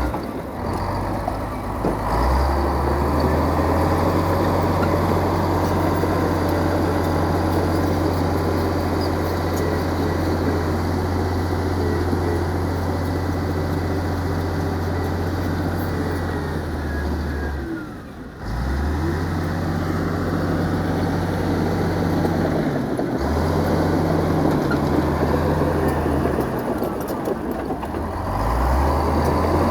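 Heavy earthmoving machinery's diesel engine running with a steady low drone. It breaks off for about a second roughly two-thirds of the way through, then picks up again.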